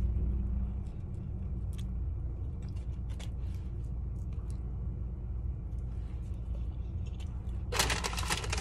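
A person chewing a mouthful of burger, faint mouth clicks, over a steady low hum inside a car with its engine running. A short rustle near the end.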